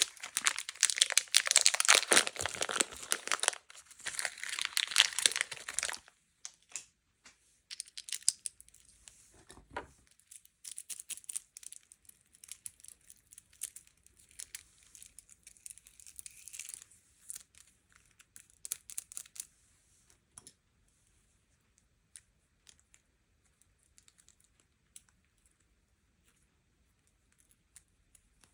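Crinkly wrapper packaging being torn open and crumpled, loud and dense for the first six seconds. It then gives way to lighter rustles and scattered clicks, which thin out to occasional ticks in the last third.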